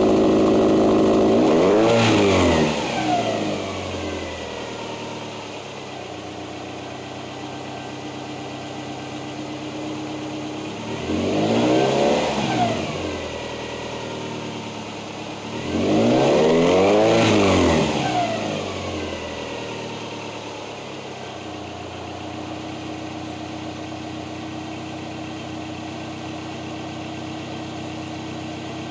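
Car engine through Nameless straight-pipe axle-backs with a midpipe, free-revving: it is held high at the start and drops to idle about two seconds in. It blips again about twelve seconds in, holds a longer rev a few seconds later, and falls back to a steady idle.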